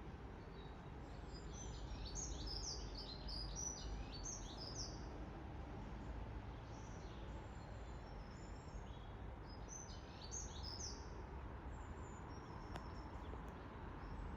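Small birds chirping in quick runs of short, high notes, busiest in the first few seconds and again toward the end, over a steady low background rumble.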